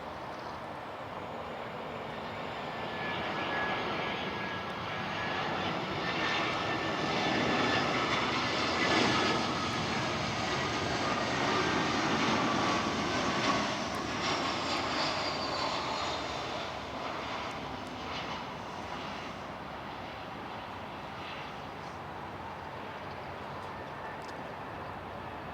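Airbus A320 jet airliner passing by, its engine noise swelling to a peak about ten seconds in and then fading away, with a whining tone that falls in pitch as it goes past.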